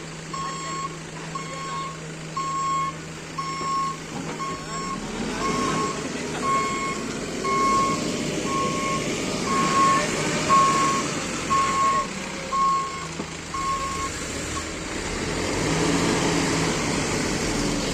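A heavy machine's travel or reversing alarm beeping steadily, a little over one beep a second, which stops about three-quarters of the way through. Under it a diesel engine runs, growing louder from about a third of the way in.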